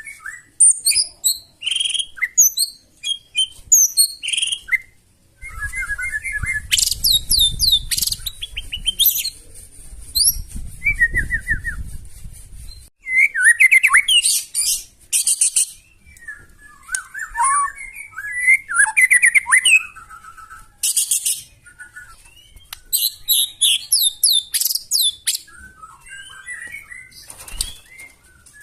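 White-rumped shama singing a loud, varied song of rapid whistled phrases, trills and harsh bursts, with brief pauses between phrases. A low rumble sits under the song from about five to thirteen seconds in.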